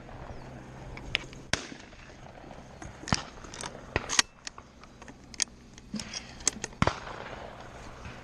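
Shotgun shots popping from elsewhere on the sporting clays course: a dozen or so sharp cracks at irregular intervals, some with a short echo.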